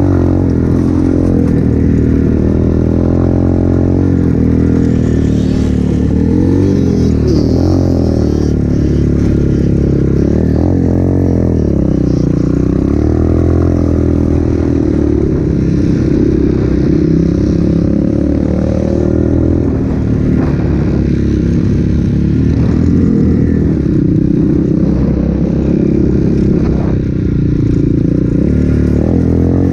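200cc Avantis pit bike's engine running under way on a trail, its pitch rising and falling again and again as the throttle opens and closes.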